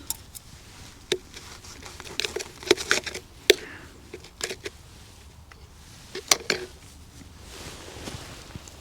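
A fork clicking and scraping on a plate, in scattered sharp taps with short gaps between them.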